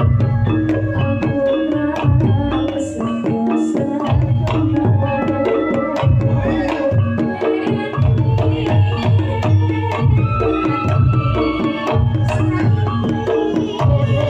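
Live campursari music: kendang hand-drum strokes over held keyboard tones, with deep bass notes falling in a regular beat.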